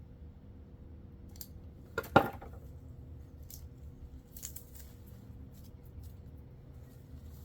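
Small hard objects being handled during wiring work: one sharp clack with a short ring about two seconds in, then scattered light clicks and scrapes.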